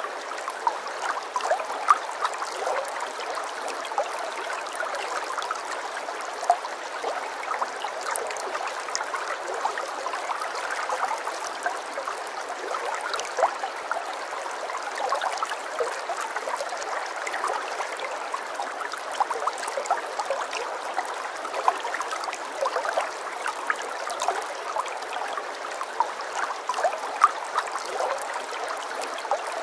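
Running water trickling and gurgling steadily, like a small stream, with many small bubbling splashes and no low rumble.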